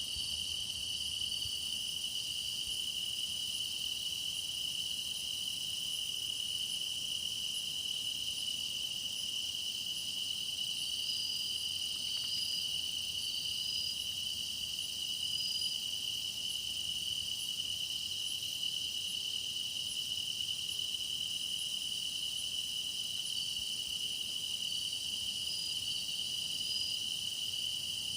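Chorus of grass insects such as crickets singing together: a steady, unbroken high trill, with fainter chirps repeating at an even pace above it.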